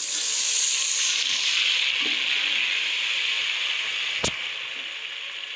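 Chopped tomatoes and browned onions sizzling in hot oil in a metal pot: a steady hiss that softens in the second half. There is a single sharp knock of the ladle against the pot a little after four seconds in.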